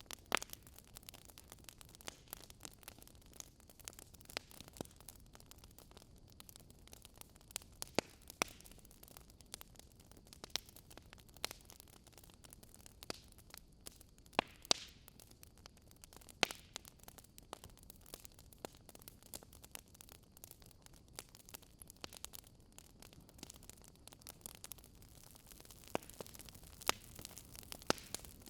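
Campfire crackling: irregular sharp pops and snaps of burning wood over a faint steady hiss, a few of the pops much louder than the rest.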